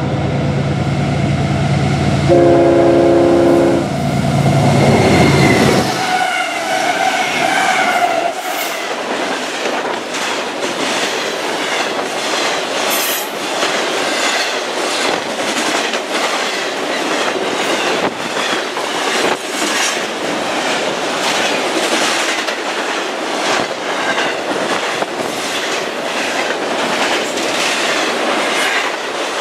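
Freight diesel locomotives sound one air-horn blast about two seconds in, over the low drone of their engines. The drone drops away as they pass about six seconds in. A long intermodal freight train of trailers and stacked containers then rolls by fast, with steady clickety-clack of wheels over the rail joints and an occasional brief wheel squeal.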